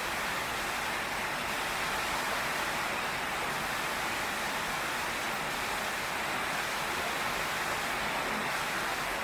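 Heavy rain pouring steadily, an even hiss with no thunder clap in it.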